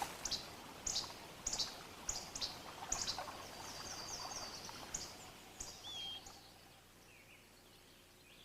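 Small birds calling: short high chirps repeating about twice a second, a quick trill about three seconds in, then a couple of short slurred whistles, over a faint outdoor background.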